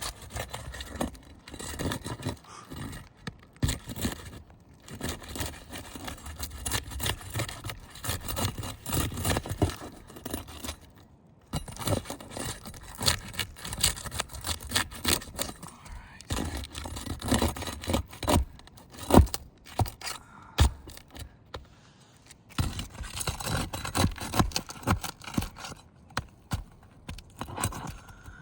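Asphalt roof shingles being lifted and worked loose by hand: irregular scraping, crackling and sharp clicks, with a short lull about eleven seconds in. The gritty scraping is granules rubbing off the shingles, a sign of heavy granule loss.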